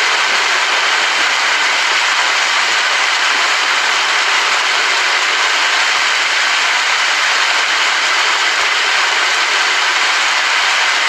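Steady heavy rain: a dense, even hiss that holds unchanged.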